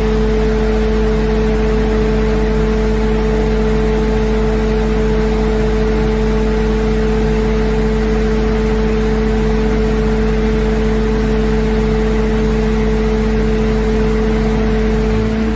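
Skid steer running the Bobcat 14-inch asphalt planer attachment: a loud, steady machine drone with a constant hum. It eases off slightly near the end.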